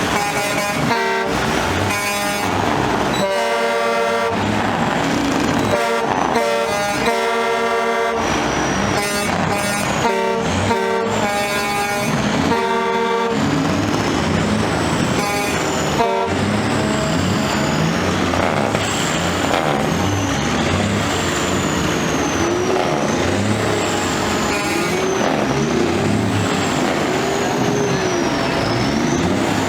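Truck air horns blowing a long series of blasts that start and stop, for about the first half. After that, a tone rises and falls in pitch over and over, about every two seconds, over the low rumble of running truck engines.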